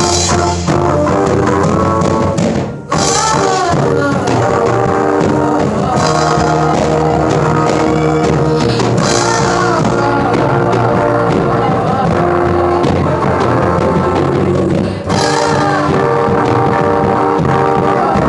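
Live gospel band playing upbeat rock-style music on drum kit, guitar and bass, with brief breaks about three seconds in and again near fifteen seconds.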